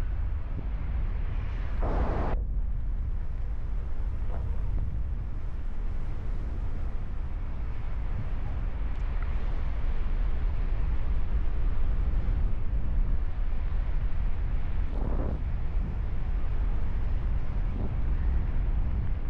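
Wind buffeting the microphone during a paraglider flight: a steady low rumble of rushing air, with two brief louder gusts, about two seconds in and again past the three-quarter mark.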